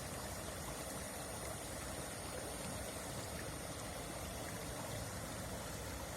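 Flowing water rushing steadily, an even unbroken sound.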